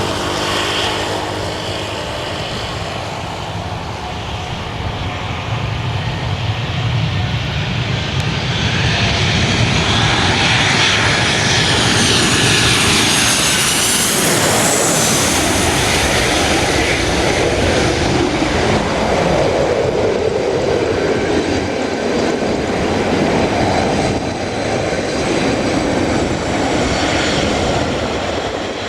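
Airliner engines passing by, growing louder to a peak around the middle, with a high whine that rises and then falls in pitch as the aircraft goes past.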